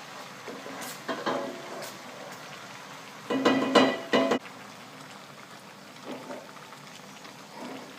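Chicken curry in coconut milk simmering in a cooking pot, with a utensil stirring and clattering against the pot, loudest about a second in and again for about a second from three seconds in.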